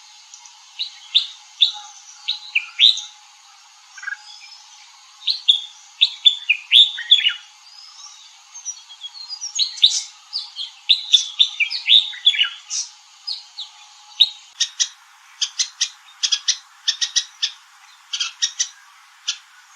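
Red-whiskered bulbul calling in short phrases of quick, bright chirping notes. For the last five seconds this gives way to a steady series of short, sharp chips, about three a second.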